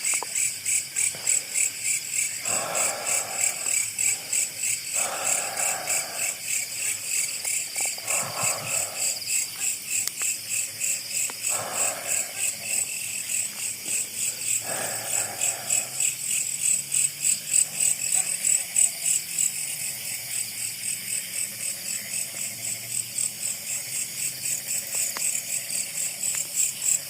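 Night insects, crickets among them, chirping in a steady fast pulse, about four or five pulses a second. A few soft rustles, about a second each, come in the first half.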